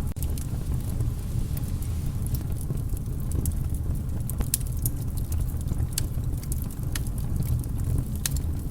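Wood fire in a fireplace crackling: scattered sharp pops and snaps over a steady low rumble of the flames.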